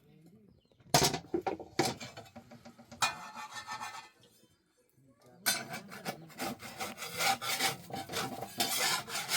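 Repeated rasping, scraping strokes. They start about a second in, pause briefly about four seconds in, and come back faster and denser from about five and a half seconds on.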